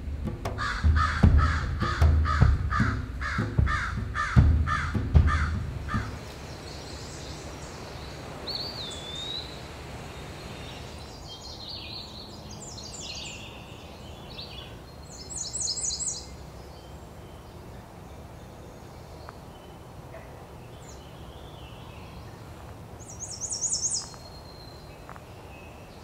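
A bird gives a rapid, regular series of about a dozen harsh, caw-like calls at roughly two or three a second, over low thuds, for the first six seconds. After that come short high bird songs, scattered a few seconds apart.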